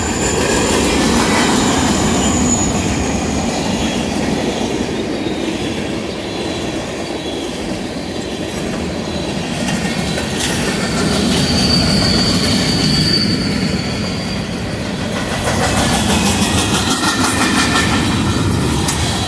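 Freight cars rolling past: a steady rumble of steel wheels on rail, with thin high wheel squeals near the start and again about eleven seconds in, and rapid clickety-clack over the rail joints near the end.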